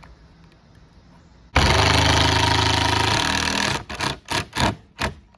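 Power drill driving a small screw into the filter frame: it runs steadily for about two seconds from about a second and a half in, then comes in about six short trigger pulses as the screw is seated.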